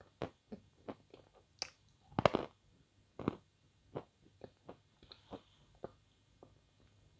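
Close-up mouth sounds of someone chewing a mouthful of cherry ice cream: irregular wet smacks and clicks of the lips and tongue, with a louder, longer squelch a little after two seconds in and another about a second later.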